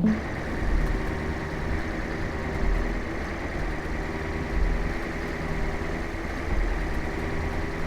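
A vehicle engine running steadily, with a low pulse about every two seconds.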